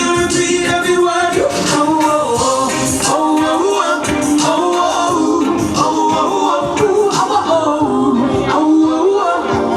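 Singing over live band music from a concert stage rehearsal, with a sung melody and a steady beat.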